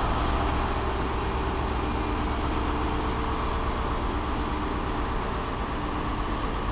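Diesel High Speed Train with Class 43 power cars running close by, giving a steady engine drone and rumble with faint steady tones over it.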